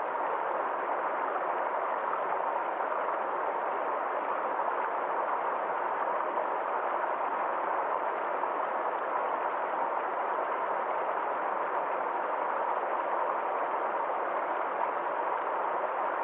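Forest stream flowing: a steady, even rush of water with no breaks or changes.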